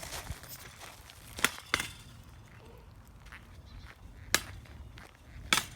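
A few sharp knocks from a stick poking around: two close together about a second and a half in, one more past the middle and one near the end, with faint rustling between them.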